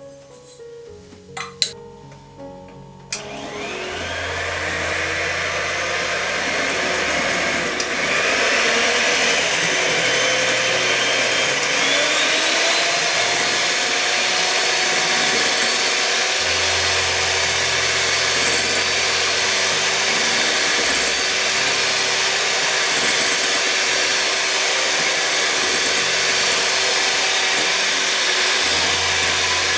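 A few sharp clicks, then an electric kitchen mixer switches on about three seconds in. Its whine rises as it speeds up, rises again partway through, and then runs steadily while mixing. Soft piano music plays underneath.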